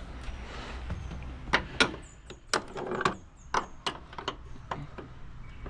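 Metal spanner clinking and knocking against a fender bolt and the car's body panel in a cramped spot: irregular sharp clicks, a few with a short metallic ring.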